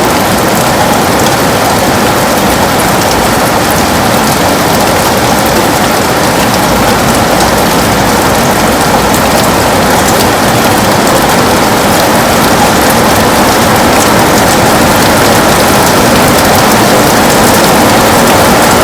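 Heavy rain falling on a window: a loud, steady, dense hiss with scattered drop ticks.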